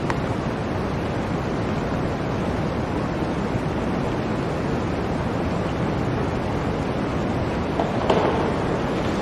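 Blizzard wind blowing as a steady, dense rush of noise, with a brief louder swell near the end.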